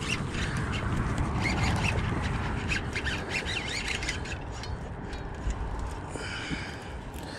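Birds calling, with scattered light clicks and knocks.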